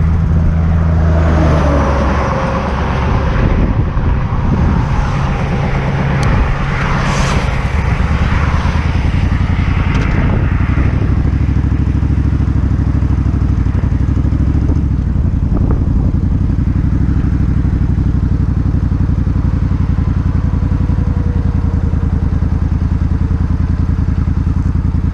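Suzuki Intruder 1400's V-twin engine running, its note shifting up and down over the first ten seconds or so and then holding steady.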